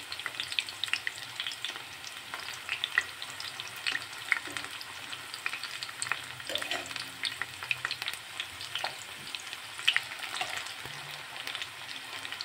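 Batter-coated mustard-flower fritters frying in hot oil in a pan: a steady sizzle thick with crackling pops, with the odd tap and scrape of metal tongs and a spatula as the fritters are turned.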